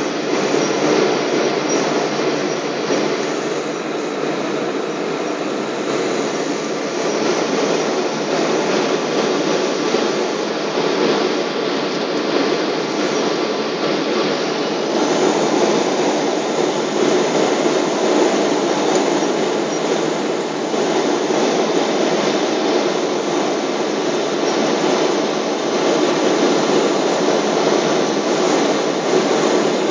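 Steady roar of a Boeing 777's engines and rushing air, heard inside the passenger cabin in flight.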